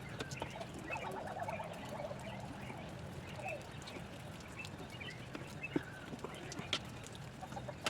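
Faint animal calls over a low steady hum, with a few sharp clicks or taps.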